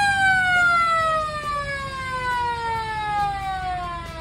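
A siren on an antique red fire-department-style car winds down: one wailing tone that peaks at the start, then falls slowly and steadily in pitch while growing fainter.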